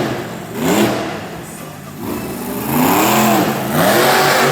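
Monster truck engine revving hard, its pitch swinging up and down in repeated blips, with the biggest revs about three seconds in.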